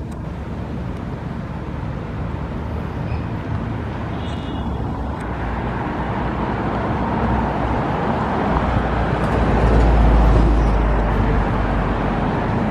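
Steady city traffic noise, with a low engine rumble that swells from about eight seconds in, peaks around ten seconds and then eases off.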